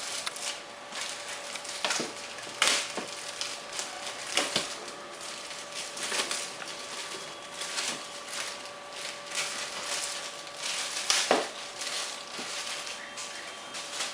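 Irregular crinkling and rustling of packaging, with short sharp crackles, as the foam wing halves of an RC glider are handled and unwrapped.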